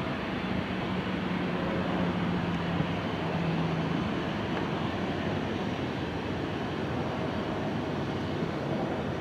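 Aircraft engine noise: a steady rushing, with a low hum underneath that fades out about four seconds in.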